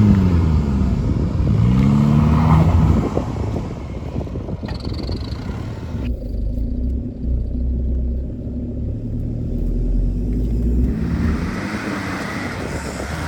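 A 4WD's engine revving hard as it climbs a soft sand dune, its pitch rising and falling sharply for the first few seconds before settling into a steadier pull.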